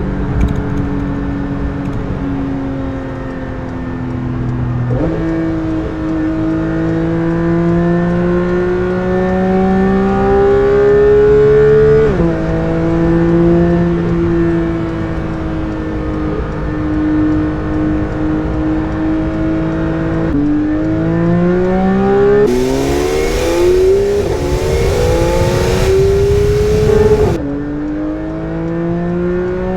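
Porsche 992 GT3's naturally aspirated flat-six engine being driven hard, its note climbing and sinking with the throttle. The pitch jumps up about five seconds in and snaps down at gear changes about twelve and twenty-seven seconds in. A hiss joins the steepest climb in the last few seconds before the second change.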